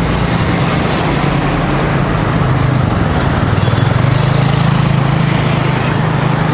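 Road traffic: a motor vehicle engine humming steadily close by, growing louder for a couple of seconds in the middle, over a constant rushing road noise.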